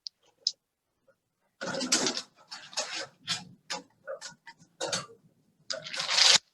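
Raffle ticket tumbler in use, paper tickets sliding and rustling inside in a run of irregular swishes about two a second, preceded by two light clicks. The tickets are being mixed before a winner is drawn.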